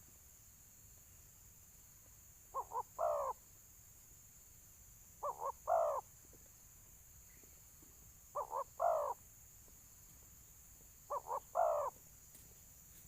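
Spotted dove cooing a territorial 'tarung' (fighting) call: four phrases about 2.7 s apart, each two short notes followed by a longer note that drops in pitch.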